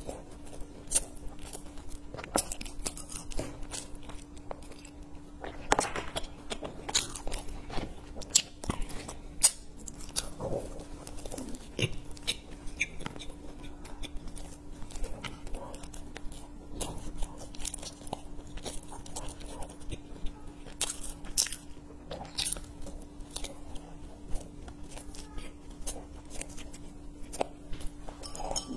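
Close-miked mouth sounds of a person biting into and chewing a soft cream-filled sesame bun: irregular small clicks and smacks, with a faint steady hum underneath.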